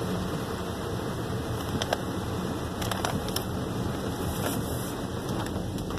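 Steady noise of heavy rain and wet road heard from inside a moving car's cabin, with a few sharp taps about two and three seconds in.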